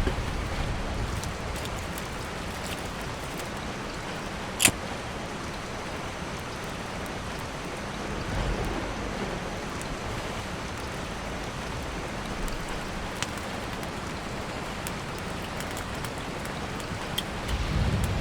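Steady rain falling, an even hiss, with one sharp loud click about five seconds in and a few faint ticks.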